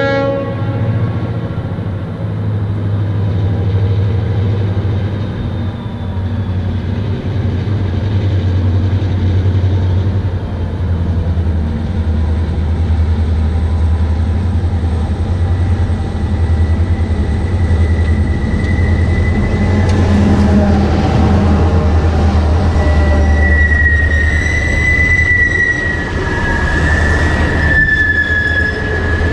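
Chepe Express passenger train rolling past with a steady low rumble of its diesel locomotives and rail cars. A horn chord dies away just after the start. In the second half the wheels squeal in high, wavering tones as the train takes the curve.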